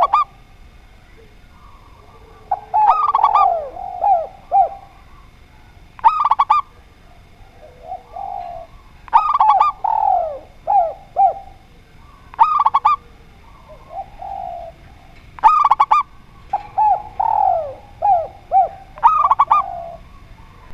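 Zebra dove and spotted dove cooing, one repeated phrase about every three seconds: quick, ringing stacked notes answered by lower, softer coos.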